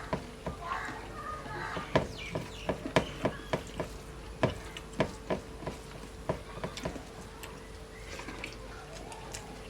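Eating sounds: a quick, irregular run of wet smacks and clicks from chewing and from mixing rice and fish curry by hand. The run fades out near the end.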